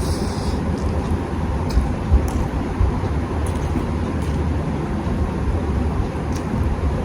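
A steady low rumble of background noise, with a few faint clicks and smacks of someone eating rice and curry scattered through it.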